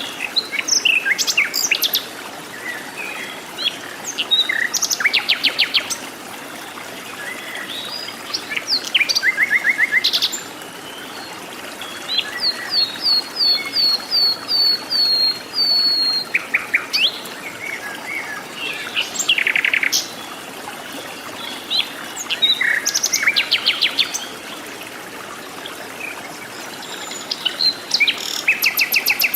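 Several jungle birds calling and singing, with short sharp calls and rapid trills, and a run of about ten quick down-slurred notes about twelve seconds in, over a steady background hiss.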